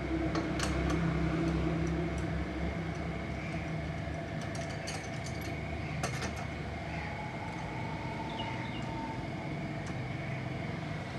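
Workshop background: a steady low hum with a few sharp clicks and knocks, one of the loudest about halfway through, and some brief high chirps.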